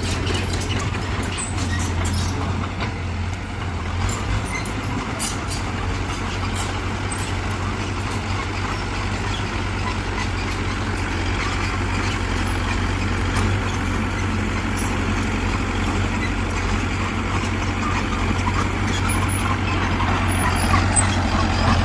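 Heavy diesel engine of earthmoving machinery running steadily with a deep low hum, a few faint clicks early on, and growing a little louder near the end.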